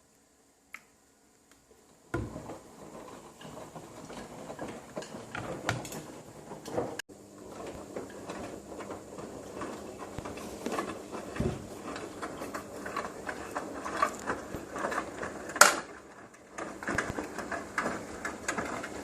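Front-loading washing machine running a wash cycle, its drum tumbling wet laundry: a dense, irregular patter and clicking of clothes and water, starting about two seconds in after a near-silent moment, with one sharp, louder clack about three-quarters of the way through.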